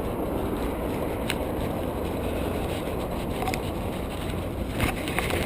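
Steady low rumble of a motor vehicle running, with a few short clicks and knocks near the end.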